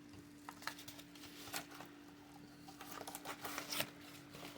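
Rustling and handling of a mail package being opened, with scattered light clicks and crinkles that get busier about three seconds in.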